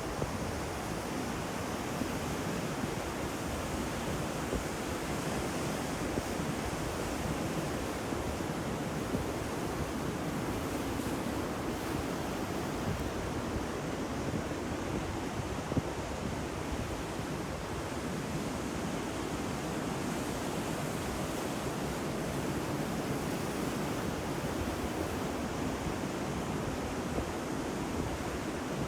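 Ocean surf: a steady wash of breaking waves with small crackles of spray.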